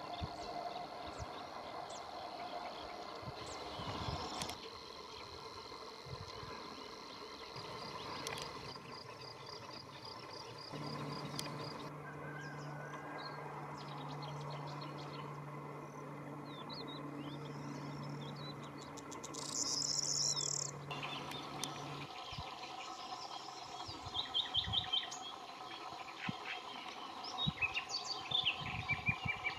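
Wild birds calling and singing in short outdoor clips, with a brief high burst of song about two-thirds of the way through and rapid repeated chirps near the end.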